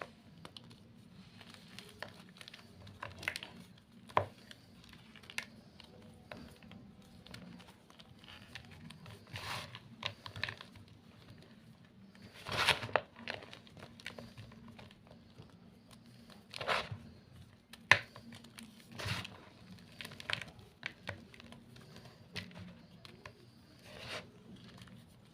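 Gym chalk being crushed, giving short irregular crunches a second or two apart, the loudest about halfway through.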